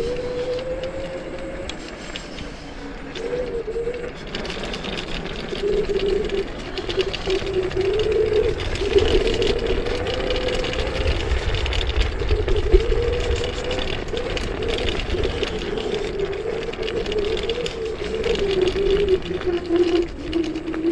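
Electric scooter's dual 1,200 W motors whining under way, the pitch rising and falling as the speed changes, over low wind rumble on the microphone.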